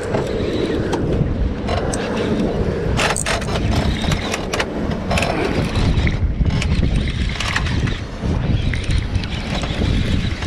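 Low rumble of a small fishing boat on the water, with wind on the microphone and a few sharp knocks about three and four and a half seconds in.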